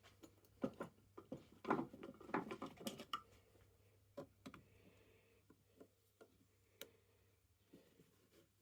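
Irregular light clicks and knocks of hand tools and metal parts being handled at a workbench, clustered in the first three seconds, then a few scattered ones.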